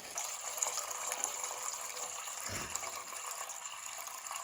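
Water running in a steady splashing stream, starting suddenly, with a single low thud about two and a half seconds in.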